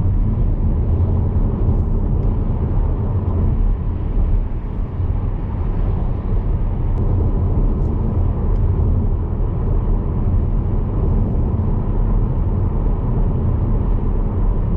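Steady low rumble of road and tyre noise with engine hum inside the cabin of a Skoda Superb petrol car cruising at a steady speed.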